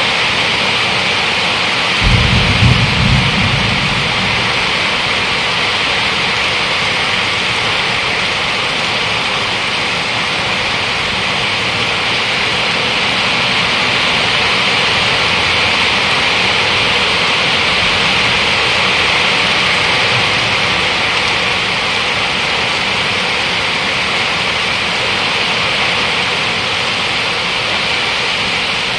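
Heavy rain pouring steadily onto roof and foliage, a dense even hiss. About two seconds in, a sudden short low rumble of thunder rises over it and fades within a couple of seconds.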